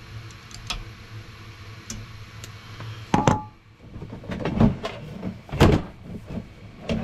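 Hand tools and heater parts being handled: a few light clicks, then a sharp knock with a brief ring about three seconds in, followed by a run of knocks and clatters as the fuel line is worked back on with pliers.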